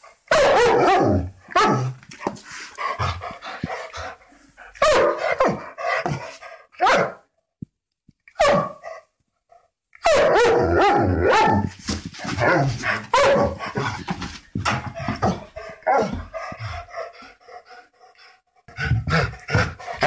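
Dogs barking in runs of loud, repeated barks. After a short silence about halfway through comes a faster string of barks.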